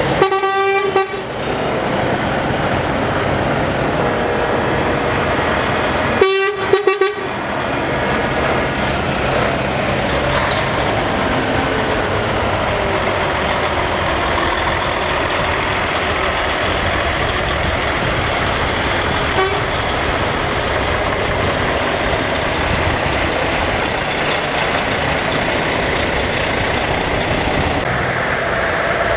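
Truck horn sounding two short blasts about six seconds apart, over the steady running of heavy truck engines in passing traffic.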